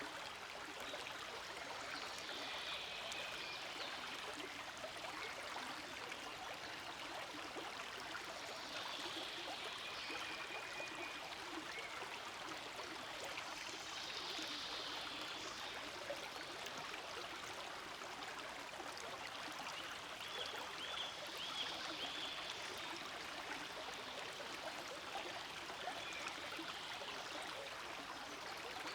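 A stream flowing steadily, an even, unbroken babble of running water.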